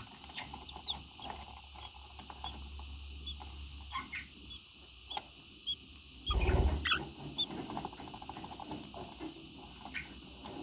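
Pet parrot making soft, short high chirps about twice a second, with clicks and a buzzy chatter. About two-thirds through comes a brief, louder rustling thump.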